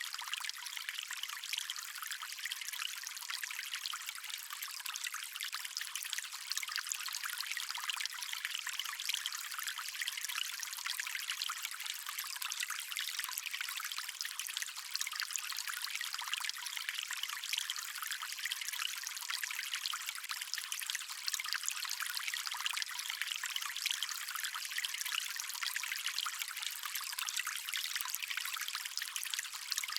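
Water stream running steadily, a continuous trickling and splashing flow. It sounds thin and hissy, with no low rumble.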